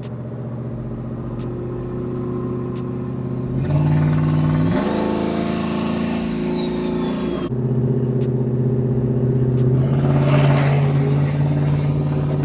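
Pickup truck engine running while driving, heard from inside the cab. It speeds up in two steps about four seconds in, with a rush of added noise, then drops back about halfway through and runs on steadily.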